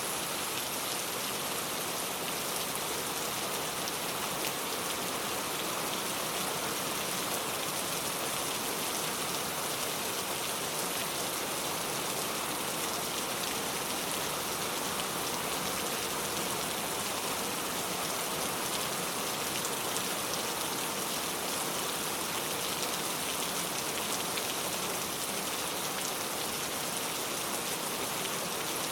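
Steady rain falling, an even hiss of drops on surfaces with no breaks.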